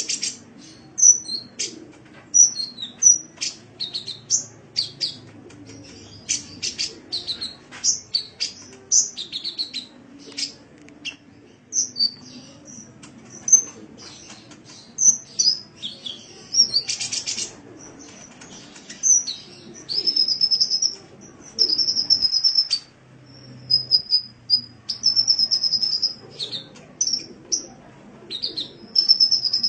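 Sunbird (the bird kept in Indonesia as 'kolibri') singing: rapid high-pitched chirps and short twittering phrases, turning to longer held trills in the second half.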